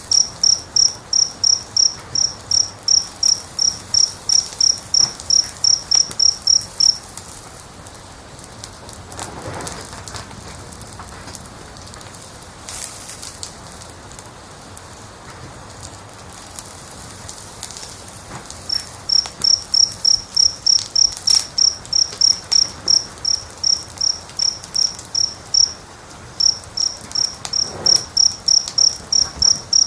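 A cricket chirping in a steady pulse of high chirps, about three a second. It stops about seven seconds in and starts again past the middle, with a short break near the end, over the soft crackle of a wood fire.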